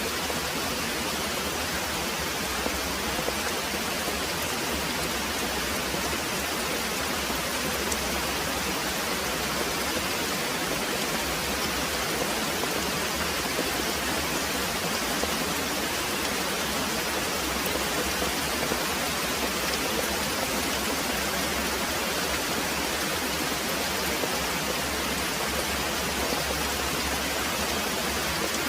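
Very heavy rain pouring steadily, a dense, even hiss with no break or rise.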